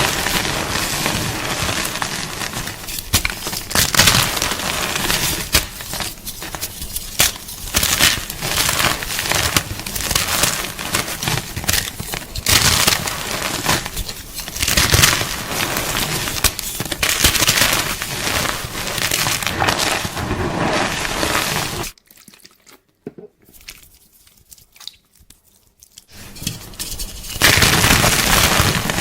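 Gym chalk crunching and crumbling in a dense run of dry, crackly crunches. It stops for about five seconds near three quarters of the way through, then starts again.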